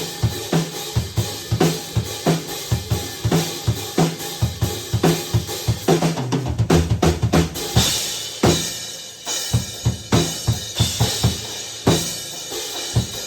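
Acoustic drum kit played in a steady groove of kick, snare and cymbals. A quick run of fast strokes about six seconds in leads into heavier cymbal wash.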